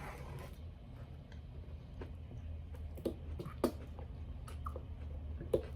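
Chewing of chicken nuggets with a few soft, scattered mouth clicks over a low steady hum.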